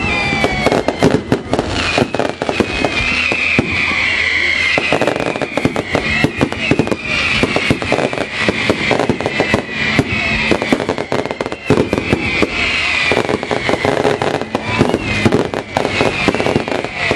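Fireworks and firecrackers going off in a dense, continuous crackle of rapid bangs, with wavering high-pitched whistling tones over them.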